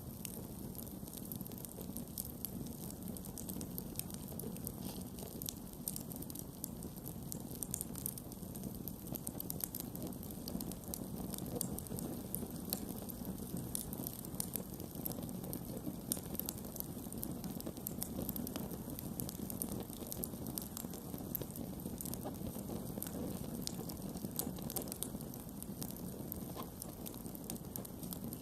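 Wood campfire burning steadily, with a continuous low rush of flames and frequent sharp crackles and pops from the burning wood.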